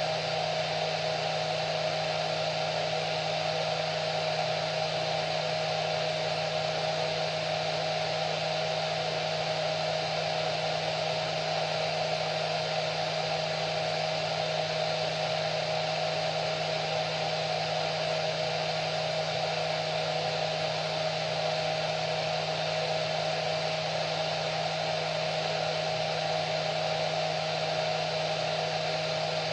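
Hair dryer running steadily, a constant whoosh of air with a steady hum from its motor.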